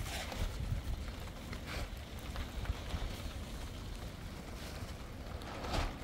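Steady rain falling, with wind rumbling on the microphone and a few brief louder swells.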